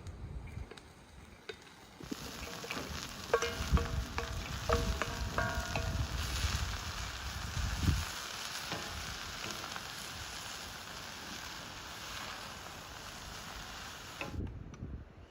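Food sizzling in hot oil in a cooking pot. The hiss starts about two seconds in and cuts off suddenly near the end. It is joined by ringing clinks and knocks of stirring in the first half.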